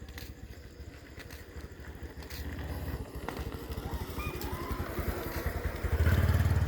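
Motorcycle engine running and drawing closer, its low pulsing beat growing steadily louder, with a sharp rise in loudness about six seconds in as it comes near.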